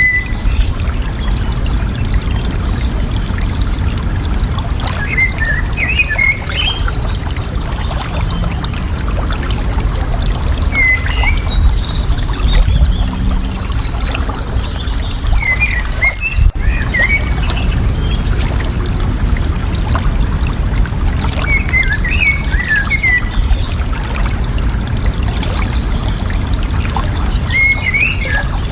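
Water flowing and gurgling steadily, with a bird calling in short chirping phrases about every five to six seconds.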